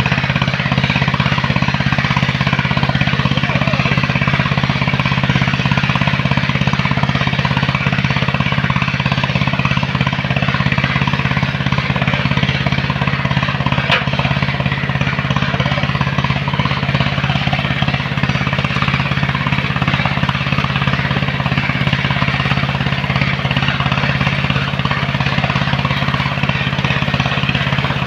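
The engine of a sand-loading machine running steadily at an even speed, with a constant noisy hiss over it.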